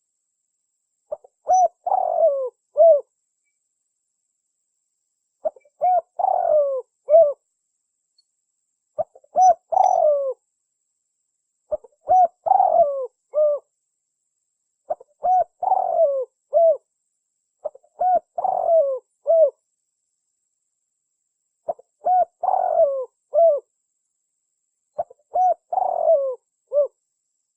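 Spotted dove cooing: the same short phrase of several soft coos is repeated about every three to four seconds, with clean silence between phrases, as in a lure-call recording.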